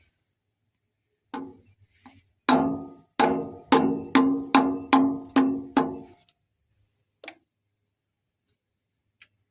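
Metal struck repeatedly: a couple of light knocks, then seven sharp blows at about two a second, each ringing with the same clear tone, and a last single knock a little later.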